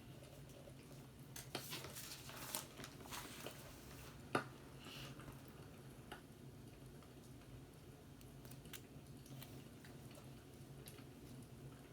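Fireplace crackling: scattered soft crackles and pops, busiest in the first half, with one sharper pop about four seconds in, over a steady low hum.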